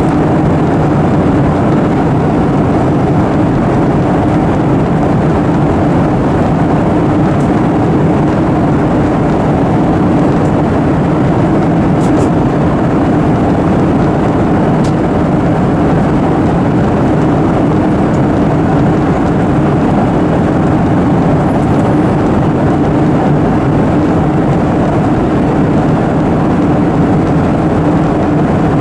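Steady cabin noise inside a Boeing 737-800 airliner: the even rumble of its CFM56 jet engines and rushing air, with a low hum, unchanging throughout.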